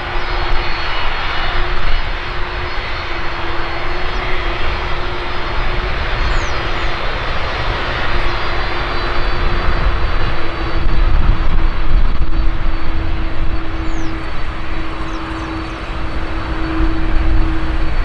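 Jet airliner engines running loud and steady: a dense rush of engine noise with a held hum and a thin high whine. It swells somewhat in the second half, dips briefly and comes back up near the end.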